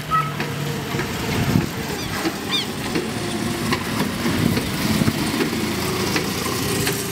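Small engine of a Lightning McQueen replica car running as the car drives across the lot and passes close by.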